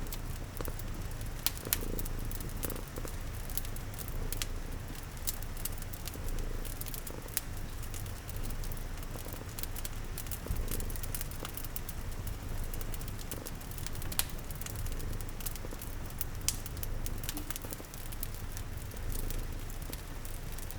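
Cat purring steadily in a low rumble, layered with the scattered pops and crackles of a wood fire and a soft, even hiss of rain.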